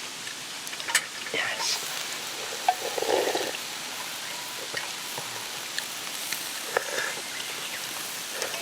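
Steady rushing of flowing stream water, with a few small clicks and taps scattered through it.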